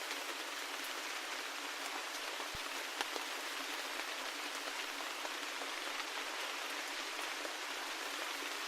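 Steady rain falling with a constant hiss, scattered individual drops ticking through it, and one sharper drop about three seconds in.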